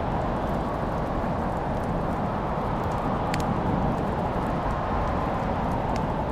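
Wood fire crackling: sparse small pops, one sharper pop about halfway through, over a steady low rushing noise.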